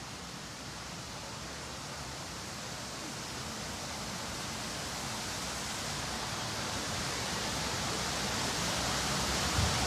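Steady rush of falling water from an indoor waterfall, slowly growing louder as the boat draws nearer.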